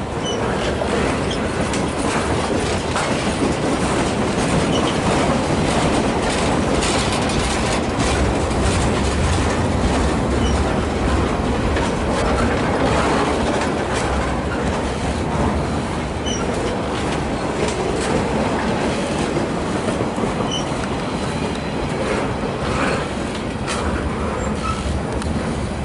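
A train rolling past steadily, its wheels running over the rails with light clicking and brief, faint squeals.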